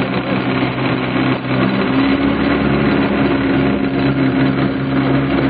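An engine running steadily at a low, even pitch over a constant noisy background.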